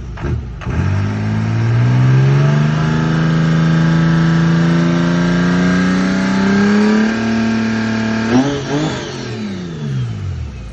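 Twin-turbo, supercharged Detroit Diesel V6 in a G-Wagon being revved. The revs climb about a second in and hold, creeping slowly higher for several seconds. A sharp blip follows, then the revs fall back into choppy, uneven revving near the end.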